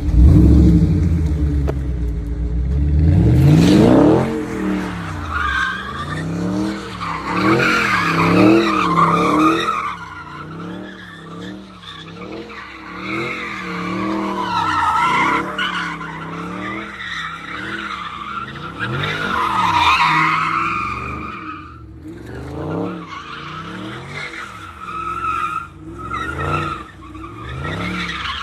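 A car engine revs up hard, then rises and falls in pitch over and over while the tyres squeal as they spin.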